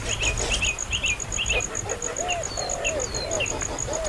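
Bird chirping: quick high chirps, several a second, for the first second and a half, then a few lower, arched calls. Behind them an insect, cricket-like, pulses steadily at about five beats a second.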